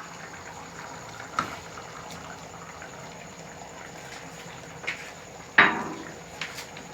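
Cooking pan with sausages being added and stirred in: a steady low hiss, a few light clicks of a utensil on the pan, and one loud clank about five and a half seconds in.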